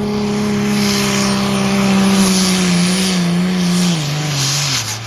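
Competition pulling tractor's engine running at high revs under heavy load, with a hiss of noise above it; near the end its pitch drops in two steps as the engine slows.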